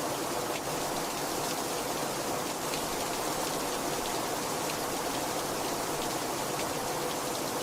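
Heavy rain falling steadily, a dense even hiss with the patter of many individual drops.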